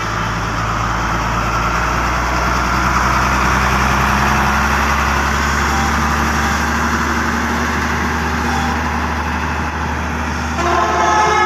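Hino FM1J truck's diesel engine running steadily. About ten seconds in, a loud horn with several tones at once starts sounding and holds.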